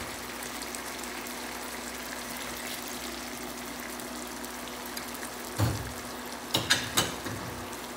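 Onion and red and green peppers frying in oil in a pan, a steady sizzle with lime juice just squeezed in, broken by a few short knocks a little past halfway.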